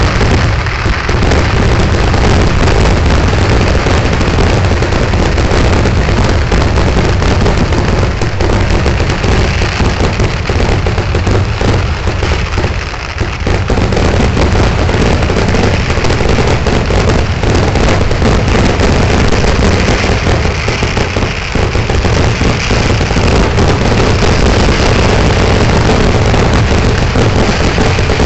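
Kerala temple-festival fireworks barrage (vedikkettu): firecrackers and shells going off in dense, overlapping bangs with no gaps between them. The barrage slackens briefly about halfway through, then keeps going just as thick.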